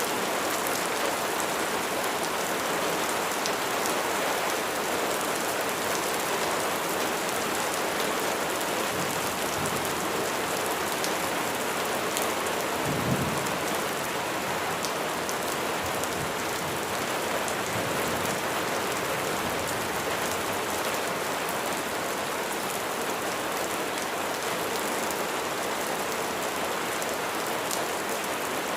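Steady rain falling, an even hiss of drops, with one brief low thump about halfway through.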